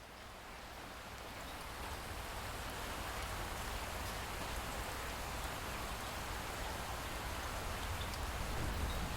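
Steady light rain, a dense patter with scattered drop ticks and a low rumble underneath, fading in over the first few seconds and then holding steady.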